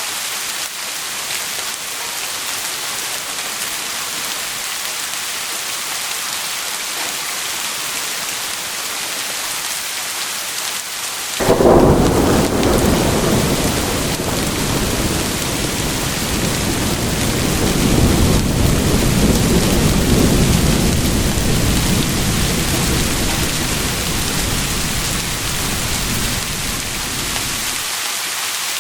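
Steady heavy rain hissing, with a thunderclap breaking in suddenly a little under halfway through and rolling on as a long low rumble that swells again and fades away near the end.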